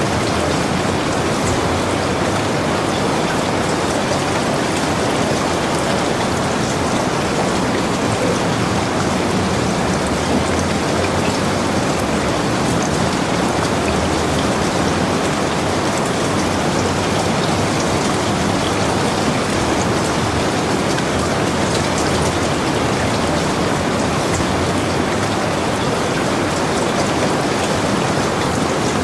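Heavy rain falling steadily: a dense, even hiss with faint scattered drop ticks, unchanging throughout.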